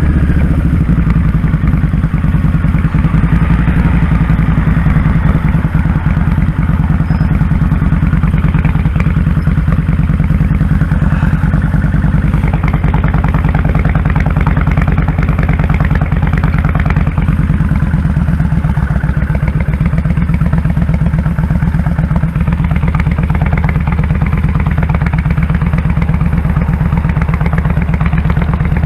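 Kawasaki Drifter 1500's V-twin engine running steadily while the motorcycle is ridden, a dense low engine note with even firing pulses. The engine note shifts slightly about two-thirds of the way through.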